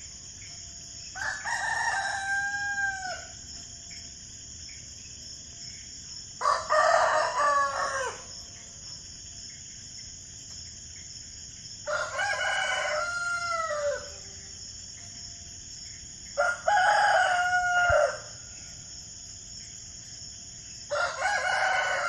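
Rooster crowing cock-a-doodle-doo five times, about every five seconds, each crow lasting a second and a half to two seconds, over a steady high-pitched hiss.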